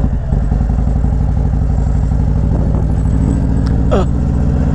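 Harley-Davidson V-twin motorcycle engine running steadily while riding, its low, evenly pulsing exhaust note picked up by the rider's helmet-mounted microphone.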